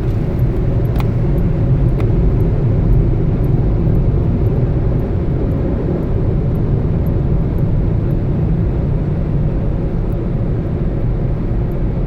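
Steady, loud low rumble of the automated car wash machinery and the truck, heard from inside the truck's cab, with two faint clicks about one and two seconds in.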